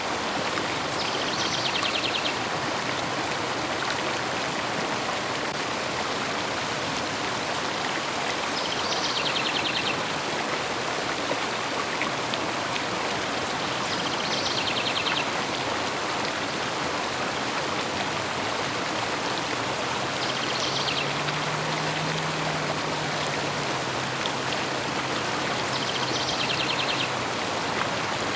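River water flowing steadily, with a bird giving the same short, rapid trill five times, about every six seconds. A faint low hum comes in about two-thirds of the way through and fades before the end.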